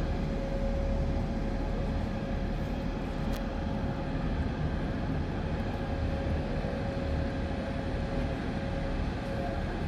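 Steady hum of a drone swarm's many small motors and propellers, one constant tone over a low rumble.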